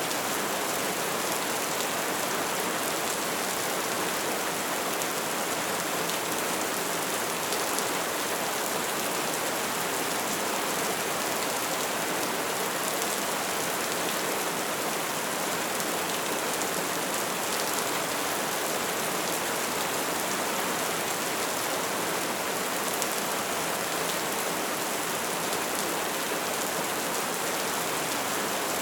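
Wood fire burning with a dense, steady crackle: a continuous hiss of flames peppered with small pops.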